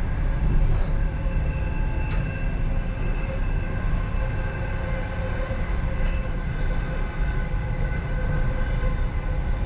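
Passenger train running steadily, heard from inside its last car: a continuous low rumble of wheels on the rails, with a steady whine of several pitches above it and a few faint clicks.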